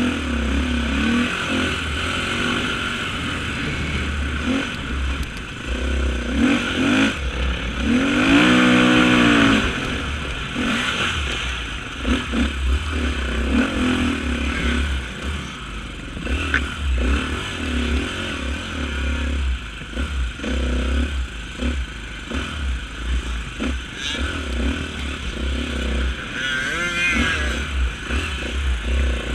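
Off-road racing motorcycle engine running and revving over rough ground, with blustery low rumble on the microphone. A louder, rising rev comes about eight seconds in.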